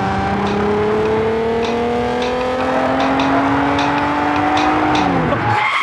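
Car engine running hard in a chase, its pitch climbing slowly for about five seconds as it accelerates, with tyre and road noise, then dropping near the end.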